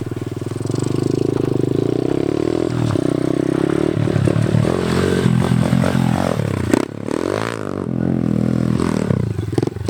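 Pit bike engine running, revving up and down several times, with a brief dip about seven seconds in.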